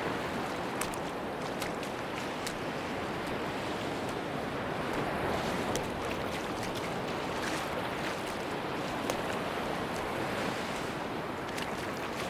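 Sea surf washing steadily onto a beach: an even, continuous rush of waves, with a few faint light ticks.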